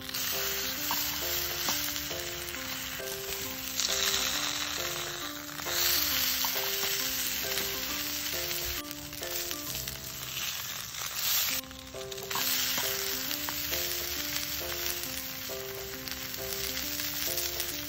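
A block of tofu frying in oil in a small cast-iron skillet, sizzling throughout, with the sizzle swelling now and then as the tofu is turned onto a fresh side. Light background music of short stepping notes plays over it.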